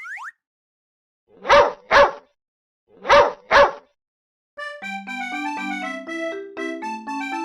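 A dog barking in two pairs, woof-woof, a pause, then woof-woof again, as a song's sound effect. Before the barks comes a brief rising chirp, and about four and a half seconds in, bright electronic keyboard music starts.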